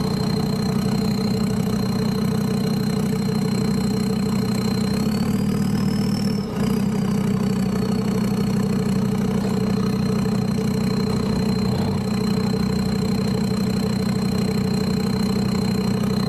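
Land Rover Discovery 2's Td5 five-cylinder turbodiesel idling steadily, a low even drone. A thin high whine rides over it, rising a little about five seconds in and easing back down.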